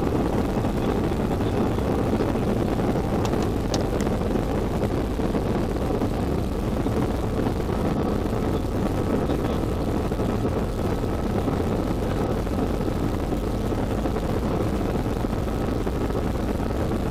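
Steady engine and airflow noise inside a jet airliner's cabin in flight, a deep even rumble, with a few faint clicks about three to four seconds in.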